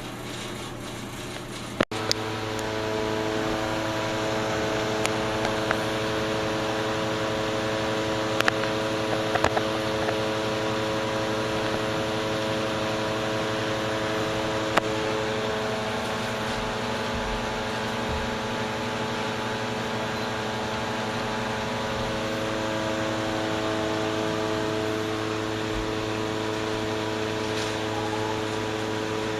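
Exhaust fan running: an even rushing noise with a steady hum of several tones. There is a sharp click about two seconds in, after which it runs louder.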